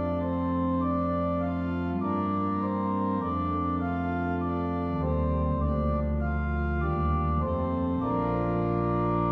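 Organ playing slow, held chords, each sustained for a few seconds before moving to the next.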